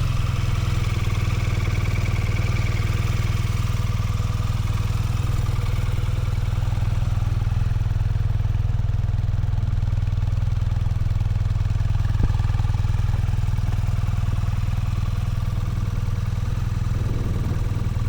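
2025 BMW R12 NineT's 1170 cc boxer twin running at a steady engine speed, with one sharp click about twelve seconds in.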